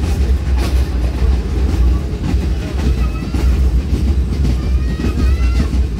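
Passenger train running along the track: a steady low rumble with the clatter of wheels over rail joints.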